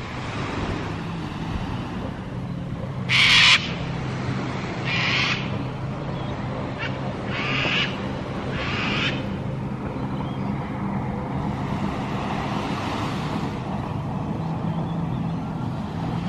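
A bird giving about five short, harsh calls, the loudest about three seconds in, over the steady low hum of an idling engine, the 2018 Honda Gold Wing's flat-six.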